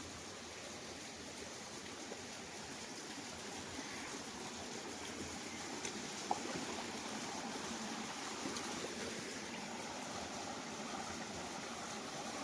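Small mountain waterfall running, a steady even rush of water, with one faint knock about six seconds in.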